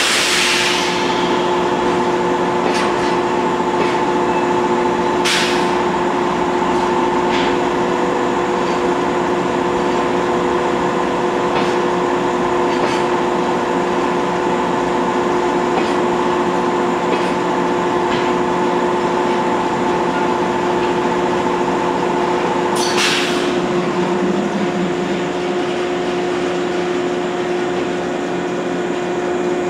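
A JR Freight container train of Koki 104 flatcars rolling past, a steady rumble with a steady whine of several pitches. Two short sharp hisses come about five seconds in and about three-quarters through, and the highest whine stops after the second.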